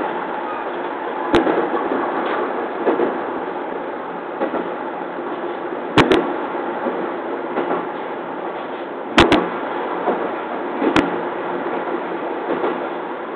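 Cab noise of a JR East 209 series electric train running along the line: a steady rumble broken by sharp clicks from the wheels crossing rail joints, two of them coming as quick double clicks.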